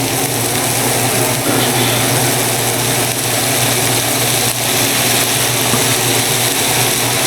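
A small electric motor hums steadily over a constant hiss.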